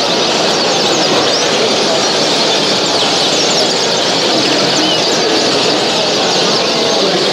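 Many caged show birds chirping and singing at once: a dense, steady chorus of short, high calls.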